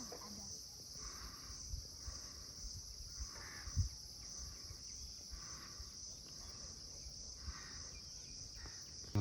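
Insects droning steadily at a high pitch, with soft steps on the trail about once a second and a single low thump a little before halfway.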